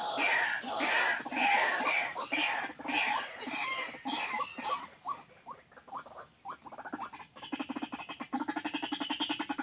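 White-breasted waterhen calls: a run of loud repeated calls, then shorter falling notes, then from about three quarters of the way in a fast, even pulsing rattle.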